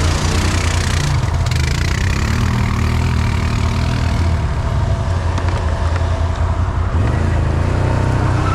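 Off-road vehicle engine running steadily at low speed close to the microphone, with no big revs.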